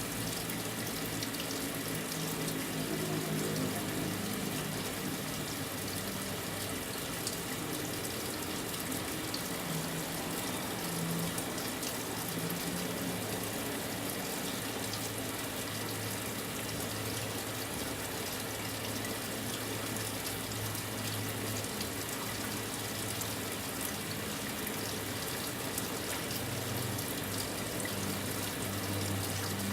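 Brastemp 9 kg washing machine filling its drum with water, a steady rush of running water over a low hum.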